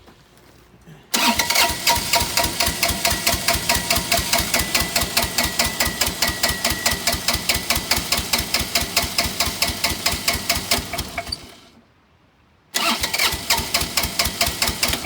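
Bobcat 328 mini excavator's diesel engine cranking on the starter with an even pulsing beat for about ten seconds without catching, stopping, then cranking again about a second later. It turns over with compression and smokes but won't fire, which the crew suspect is the fuel being shut off.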